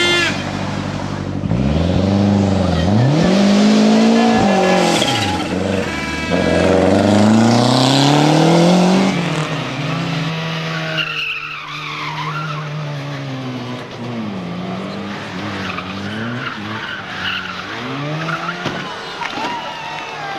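Race car engine revving hard, its pitch climbing and dropping again and again as it shifts through the gears. It is loudest in the first half, then quieter with further revs.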